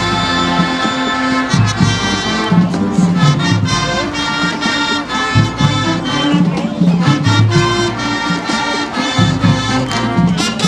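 High school marching band playing: held brass chords over a moving low-brass bass line, with drums.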